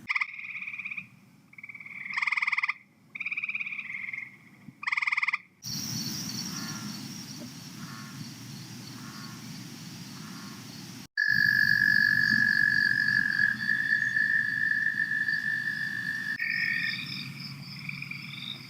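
Frogs of several species calling, played as a run of short field-recorder clips joined with abrupt cuts: first separate pulsed calls repeated every second or so, then a dense chorus, then a long steady high trill, then overlapping calls at the end.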